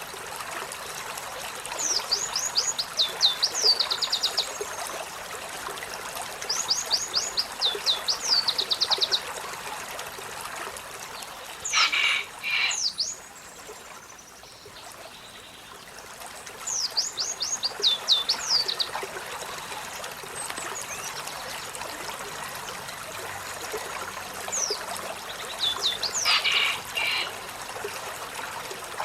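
Olive-backed sunbird singing: four bursts, each about two to three seconds long, of rapid, high notes that sweep downward, with two louder, sharper calls, one about halfway through and one near the end. Steady running water in the background.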